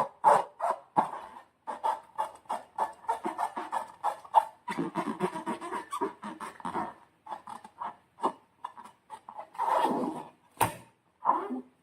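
Slime being squished and worked by hand, making irregular wet squelches and small crackling air-bubble pops, with a sharp click about ten and a half seconds in.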